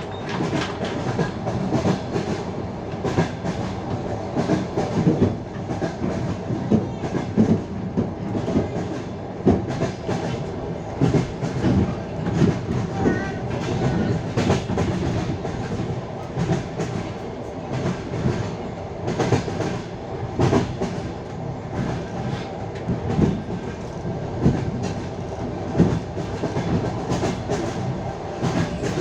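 Wheels of a passenger train clattering over the rail joints, with a continuous rumble and repeated knocks, heard from aboard the carriage.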